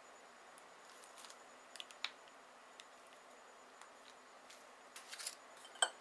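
Light handling sounds of kitchen utensils against a bowl: scattered faint clicks and taps, a short cluster about five seconds in, and a sharper click near the end.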